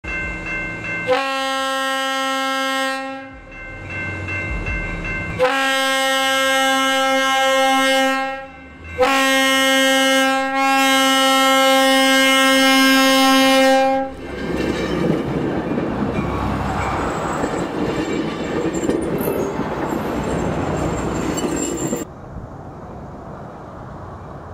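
Horn of an approaching single passenger railcar sounding three blasts, the third the longest, then the railcar's wheels running loudly past on the rails. The sound drops suddenly to a much quieter background near the end.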